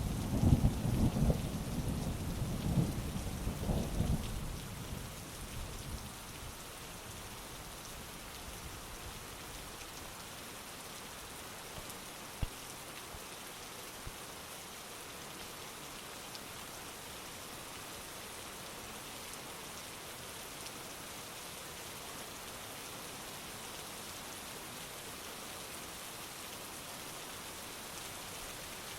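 Thunder rumbling low and heavy over steady rain, dying away about five seconds in, leaving an even hiss of rain with a single sharp tap around twelve seconds in.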